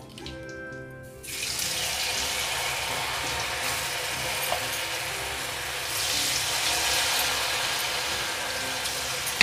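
Batter-coated mushroom pieces frying in shallow hot oil in a kadhai: a steady loud sizzle that starts about a second in as the pieces go into the oil.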